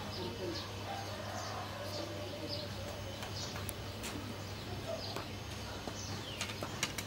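Small birds chirping repeatedly, with a few sharp clicks near the end.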